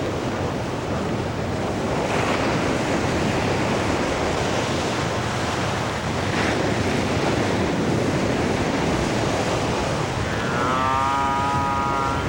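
Steady wind and surf noise at a seabird colony. Near the end an albatross gives one drawn-out, pitched call.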